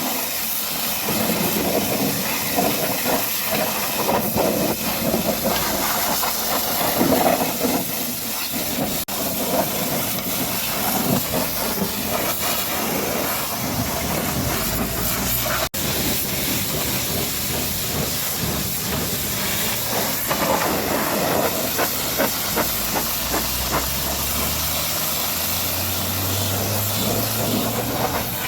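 High-pressure water spray hissing steadily against a truck, breaking off for an instant twice. A low motor hum comes in and rises in pitch near the end.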